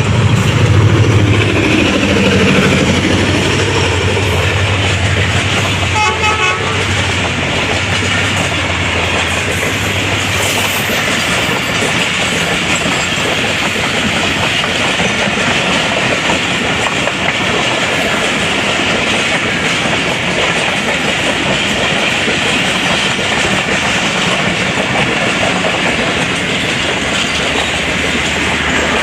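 Pakistan Railways ZCU-30 diesel-electric locomotive hauling an express train past, its engine running loud for the first few seconds, then a long steady rumble and clatter of the coaches' wheels on the rails. A brief pulsing tone sounds about six seconds in.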